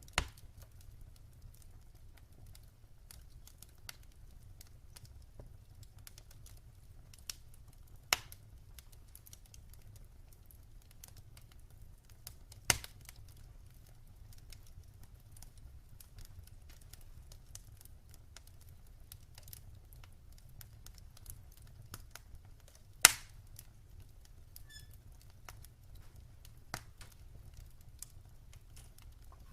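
Wood fire crackling in a fireplace: scattered small crackles over a low steady rumble, with a few sharp, louder pops, the loudest about 23 seconds in.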